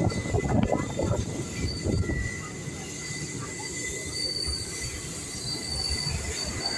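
Train wheels squealing on the rails over a low rumble of the moving train, the thin high-pitched squeal coming and going.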